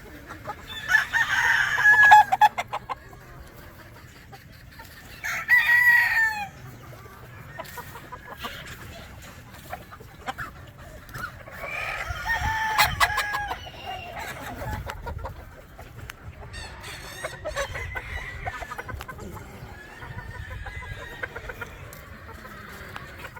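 Gamefowl roosters crowing in turn, several crows near and far: the loudest about a second in, another at about five seconds and a third about halfway through, with fainter crows and clucking later.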